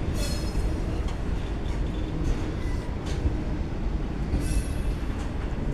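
Indian Pacific passenger carriages rolling slowly past with a steady low rumble, and short high-pitched wheel squeals near the start, about three seconds in and again around four and a half seconds in.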